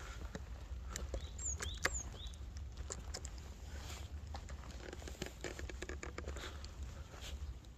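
Footsteps crunching and rustling through forest leaf litter and twigs at a walking pace. A few short, falling bird chirps sound about a second and a half to two seconds in.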